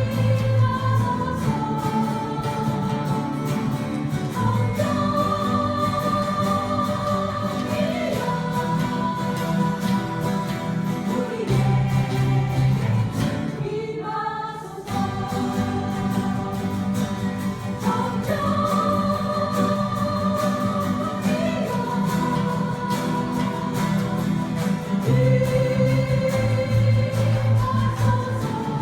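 Acoustic guitars strumming while a group of voices sings a worship song. The music briefly drops away about halfway through, then carries on.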